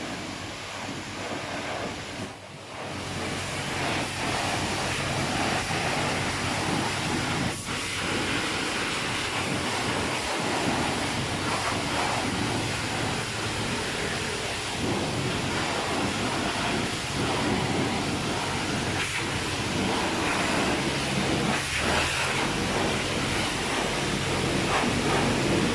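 Steady rushing noise heard from inside a car's cabin, with a faint low hum underneath.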